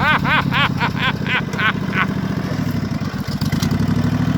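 Racing lawnmower engine running steadily at a low idle. In the first two seconds a quick series of about ten short chirps, each rising and falling in pitch, sounds over it and fades out.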